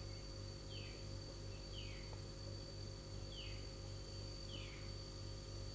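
Faint background: a bird's short falling chirp repeated about once a second, over a steady low hum and a thin high whine.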